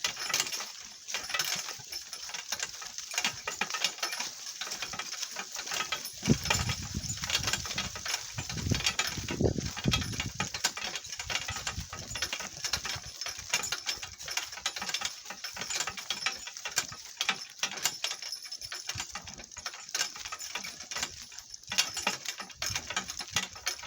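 Donkey cart rattling and clattering as it jolts over rough ground, a dense run of small irregular knocks, with a low rumble for a few seconds near the middle.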